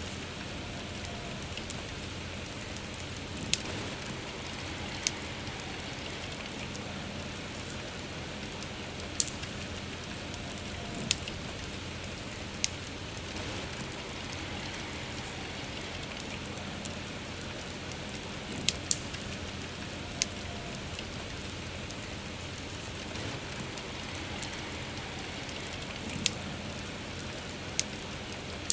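Steady soft rainfall, with the sharp pops of a crackling wood fire breaking through at irregular intervals every few seconds.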